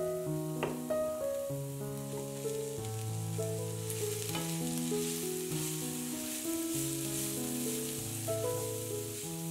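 Chopped onion and grated carrot sizzling in a frying pan while being stirred with a wooden spatula; the sizzle gets fuller about four seconds in. Background music plays throughout.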